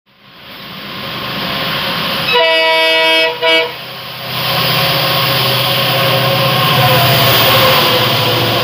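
Running noise of a moving train fades in, then a train horn sounds a long blast and a short one about two and a half seconds in. From about four seconds a diesel-hauled freight train of covered wagons passes on the adjacent track at speed, a loud steady rumble and clatter.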